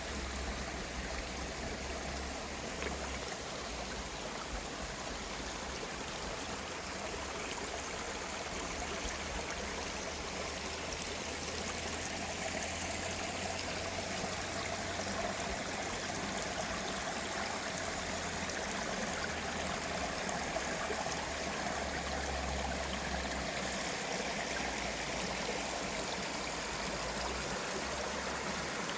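Valley stream flowing steadily, an even rush of water.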